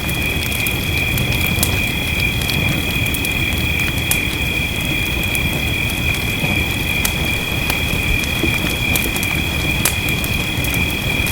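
Wood fire crackling with scattered sharp pops over a steady rain hiss, and a continuous high-pitched two-note drone running under it.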